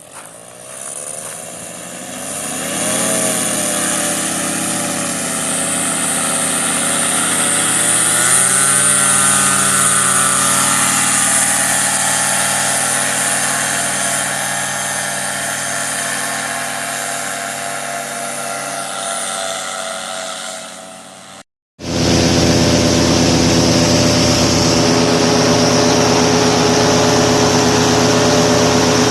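Paramotor trike engine and propeller starting up and running. It rises in pitch twice, around 3 and 8 seconds in, as the throttle opens, then holds a steady note. After a brief break about 21 seconds in, it runs steadily again at a louder, fuller note.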